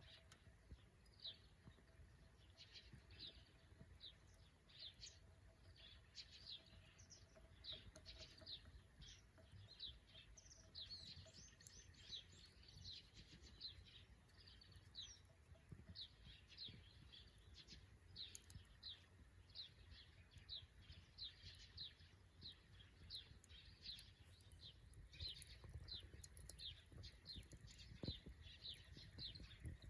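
Faint birds chirping: a steady run of short, high, falling chirps, about two a second, over a low rumble.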